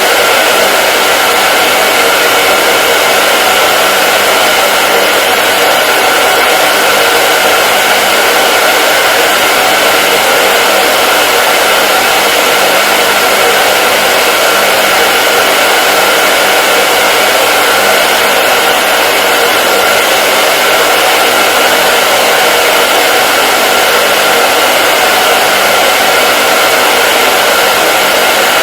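Electric hair dryer running steadily: a constant rush of blown air with a steady motor whine, no change in speed.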